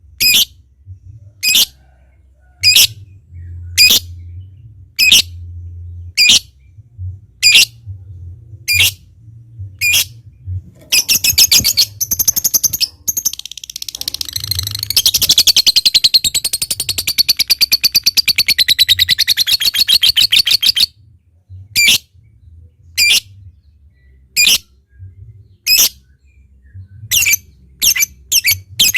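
Lovebird calling with sharp single chirps about one a second. About eleven seconds in it breaks into a quick run of ticking notes (ngetik) that turns into a long, fast, continuous chattering trill (ngekek) of about six seconds, then goes back to single chirps. A faint low hum runs underneath.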